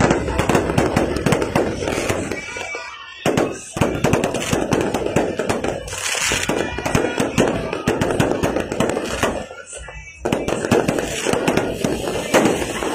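Aerial fireworks going off in rapid succession, a dense run of bangs and crackling that thins out briefly twice and starts up again each time with sharp bangs.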